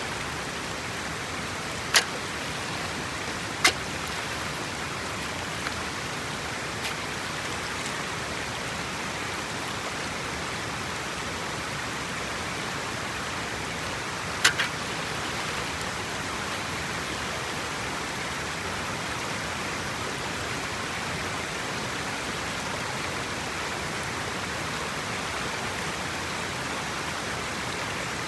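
Steady rush of water, with a few sharp clicks or knocks: two in the first four seconds and one about halfway through.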